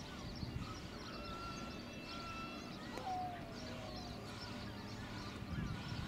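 Birds calling: a few short whistled notes and a falling call about three seconds in, with scattered chirps, over a steady low rumble.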